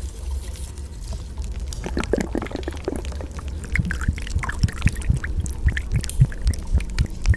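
Rain and running water: an irregular patter of drips and splashes over a steady low rumble.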